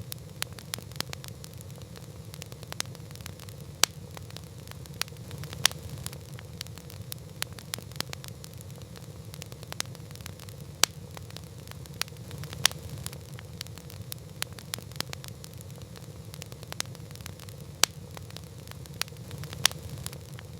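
Campfire crackling, with sharp pops at irregular intervals, several a second at times, over a low steady rush of the burning fire.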